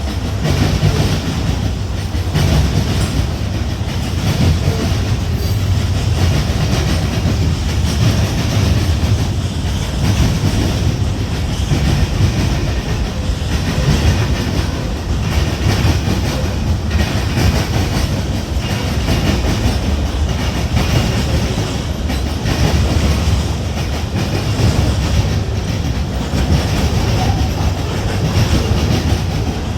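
Freight train cars rolling past with a loud, steady low rumble and wheels clacking over the rail joints.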